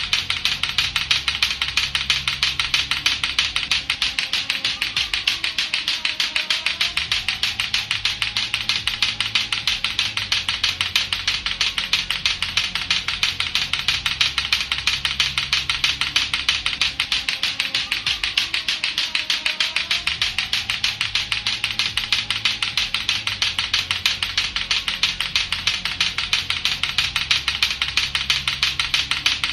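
Lato-lato clacker toy: two hard plastic balls on a string knocking together in a rapid, steady run of clacks. A faint low looping tone runs underneath.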